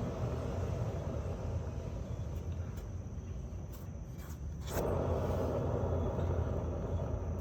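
Harbor Freight trailer wheel spinning on a worn, noisy wheel bearing, giving a steady low rumble. About two-thirds of the way in there is a click, after which the rumble is louder.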